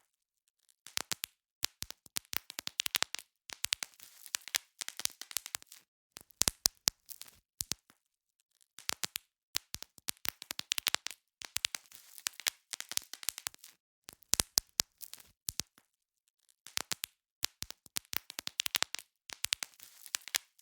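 Bubble wrap being popped: quick runs of sharp pops and crackles, each run lasting a second or two, with brief silent pauses between them.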